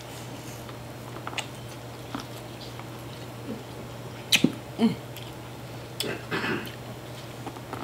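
Person eating corn on the cob close to the microphone: scattered short chewing clicks and mouth smacks, a few louder ones a little after the middle, over a steady low hum.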